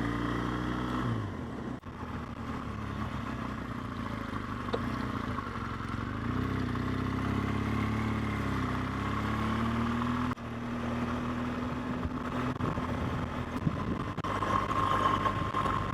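BMW R1200GS flat-twin boxer engine running on the move, with wind and road noise. The engine note drops in the first second, then rises and eases off again a few seconds later.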